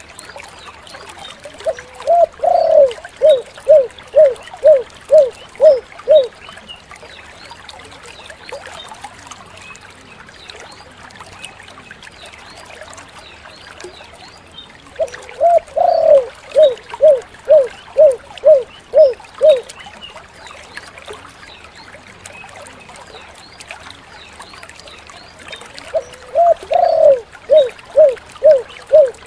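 Spotted dove (tekukur) cooing: three song phrases, each an opening coo followed by a run of about seven short, even 'kuk' notes at roughly two a second, the last phrase starting near the end.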